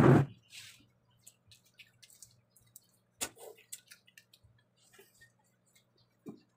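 Close-up eating sounds from hand-fed eating: scattered wet lip smacks and chewing clicks. A short loud noise at the very start, a sharper click about three seconds in and another near the end, over a faint steady low hum.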